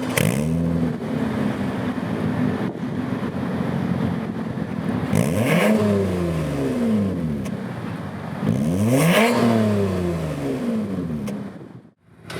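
Toyota Camry engine revved through an aftermarket active valve exhaust system: three free revs, one just after the start and two higher ones about five and nine seconds in, each climbing in pitch and falling back to idle.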